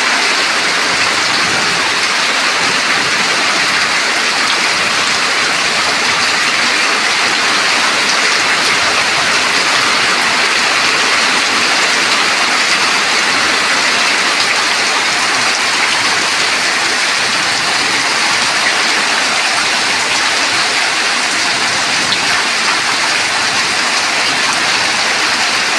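Heavy rain pouring steadily, a dense even hiss of downpour.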